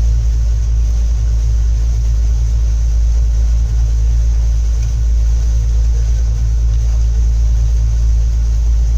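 Steady low rumble of a moving Indian passenger train, heard from inside the carriage.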